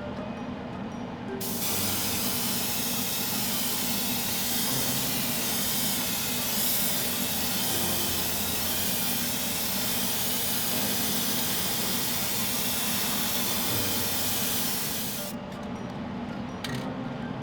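A steady, loud spraying hiss that starts about a second and a half in and cuts off near the end.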